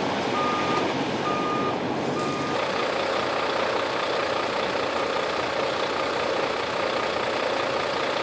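Vehicle back-up alarm beeping about once a second, stopping about two seconds in, over the steady running of a large truck's engine.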